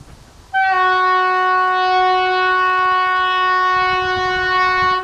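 Train horn sounding one long, loud, steady single-pitch blast, starting about half a second in and holding for about four and a half seconds.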